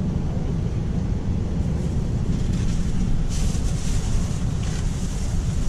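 Steady low rumble of a passenger train, with a stretch of louder hissing from about three to five seconds in.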